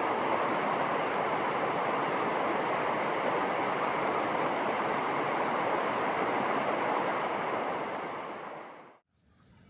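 Steady rush of flowing water, even and unbroken, fading out near the end and then cutting off.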